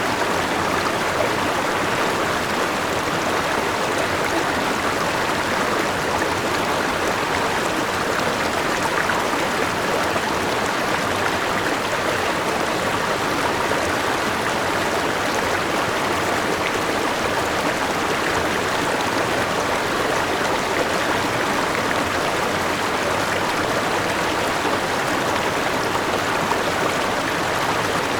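A river rushing over rocks: steady running and splashing water, with no breaks or other sounds standing out.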